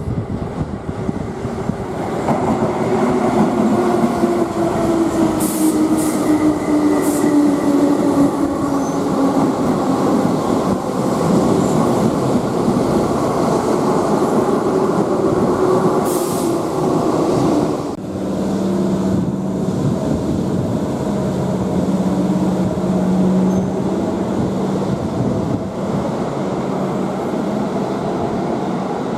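Keihan electric train running loud through the station: wheel and motor noise with a motor whine falling in pitch and brief high squeals. About eighteen seconds in, the sound changes suddenly to a steady hum, and near the end a whine rises in pitch again.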